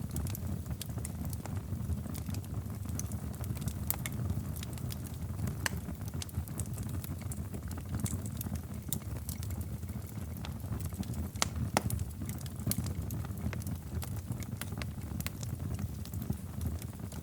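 Wood fire crackling in a fireplace: a steady low rumble of flames with scattered sharp pops and snaps, a couple of louder snaps about two-thirds of the way through.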